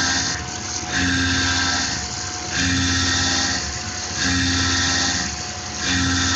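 Tormach PCNC 1100 CNC mill cutting aluminium with an end mill at about 5000 RPM. The cutting sound swells and eases in a regular cycle, loud for about a second then quieter for about half a second, as the cutter moves into and out of the material.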